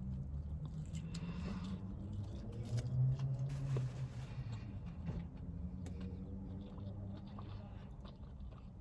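Close chewing and mouth sounds of a person eating a fast-food burger meal, with scattered small wet clicks over a steady low background hum.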